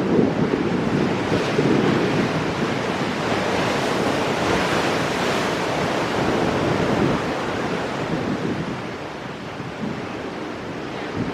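Ocean surf breaking on shoreline rocks and washing back, a continuous rush that swells through the first half, eases off, and builds again near the end as the next wave comes in.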